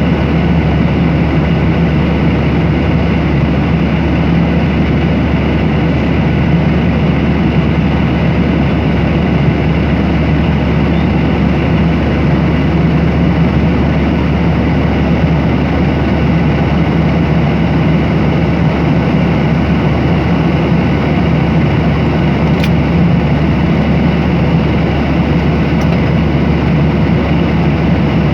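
Airliner cabin noise in cruise flight: the steady rush and low drone of the engines and airflow, unchanging throughout.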